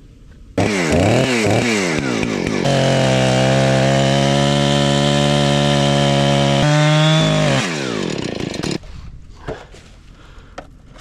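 Two-stroke chainsaw revved up and down a few times, then held at full throttle cutting through wood for about four seconds. Its pitch jumps up as the cut frees, then it drops back and stops about three-quarters of the way through.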